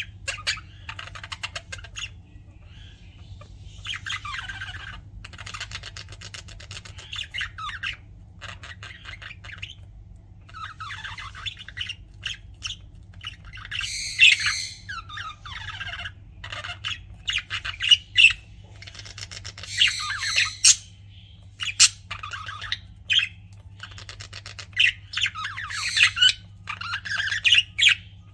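Pet budgerigars chattering: rapid warbling chirps and harsh squawks in irregular bursts, several birds at once. A steady low hum lies underneath.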